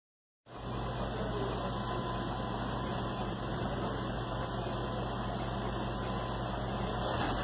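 Car engine idling, heard from inside the car: a steady low hum under a hiss, coming in about half a second in after a moment of silence.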